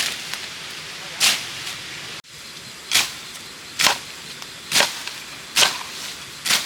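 A blade, most likely a machete, chopping bamboo in a steady series of sharp strikes about one a second. The sound breaks off abruptly a little over two seconds in.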